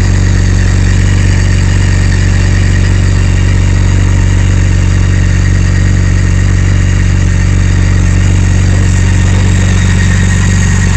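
BMW K1600 inline-six engine idling steadily.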